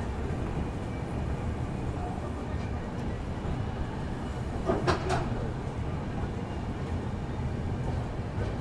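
Passenger express train running, a steady low rumble of the coaches on the track. About five seconds in there is one short, sharper sound.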